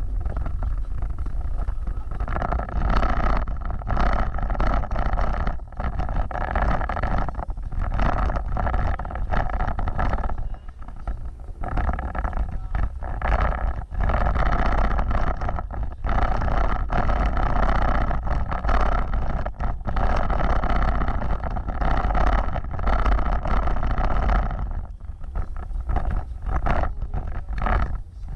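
Car driving along a rough off-road trail: a steady, loud engine and tyre rumble, broken every second or so by brief jolts and dips in the sound.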